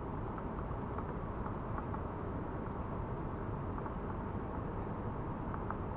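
Steady noise of running water, with scattered faint ticks and patter.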